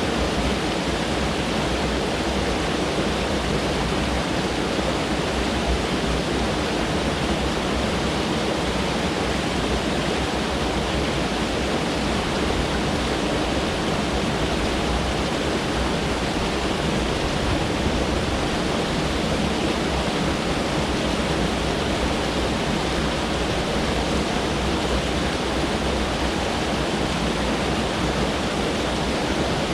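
Mountain stream rushing over rocks: a steady, even wash of flowing water with no breaks.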